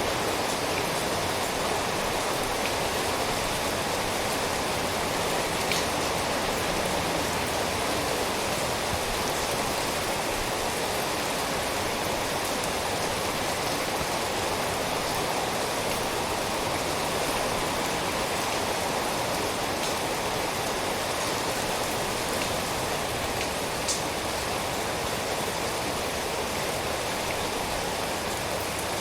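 Steady rain, a dense even hiss of countless drops, with two sharper single drops standing out, one about six seconds in and one later.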